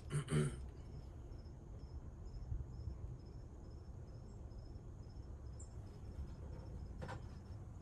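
Crickets chirping steadily, about three high chirps a second, over a low background rumble, with a brief knock right at the start and a short click near the end.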